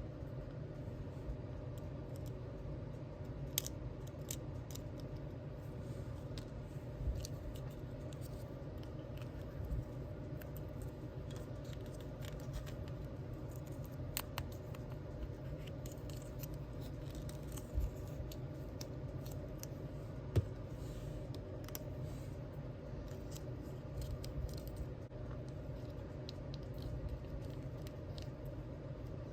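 Small craft scissors snipping, with scattered light clicks and scrapes of small pieces being handled, over a steady low hum.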